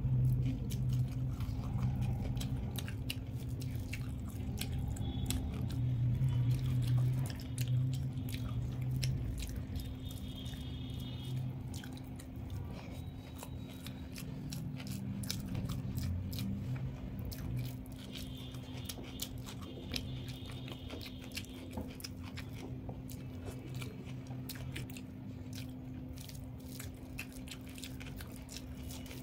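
A person eating: a dense run of small wet clicks and smacks of chewing mouthfuls of food, over a steady low hum.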